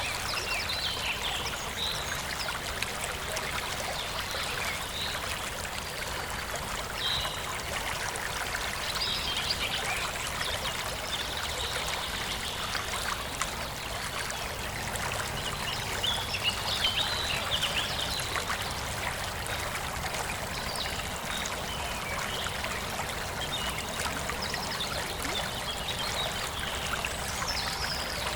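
Forest stream flowing and trickling steadily, with birds chirping now and then.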